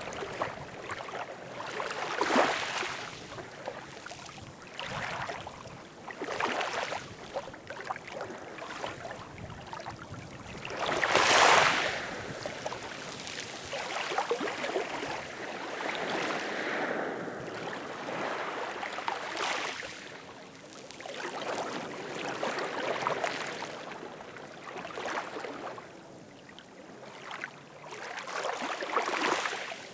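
Ocean waves washing in and out, one surge after another every few seconds, the biggest breaking about eleven seconds in.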